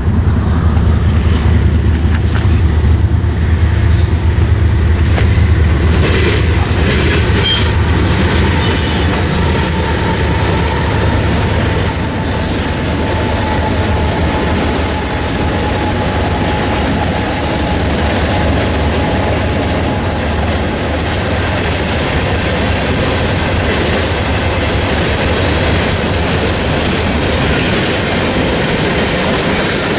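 A diesel-hauled freight train passing. There is a deep locomotive engine rumble over the first several seconds, then the steady rolling noise of freight cars going by with clacking wheels, and a faint thin wheel squeal in the middle.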